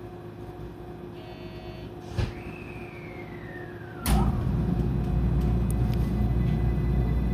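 Electric train (JR 223 series 2000) with a steady electrical hum, a brief chime, a click, then a loud thud about four seconds in followed by louder steady rumbling. Near the end a rising electric whine begins as the motors start to pull the train away.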